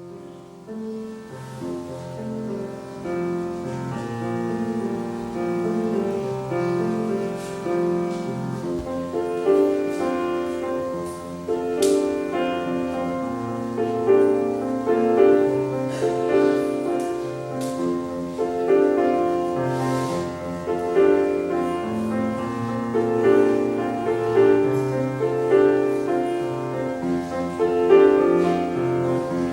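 Slow instrumental piano music in full chords, starting softly and growing louder over the first several seconds.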